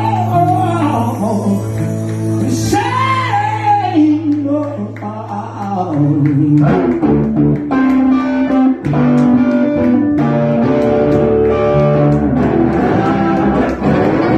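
Live blues band playing: electric guitars over bass, with a chord change about six seconds in.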